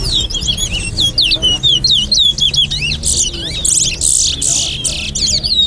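Towa-towa (chestnut-bellied seed finch) song in a bird-singing contest: a rapid, unbroken run of short whistled chirps and sweeping notes, with a few buzzier phrases around the middle, from two birds singing against each other.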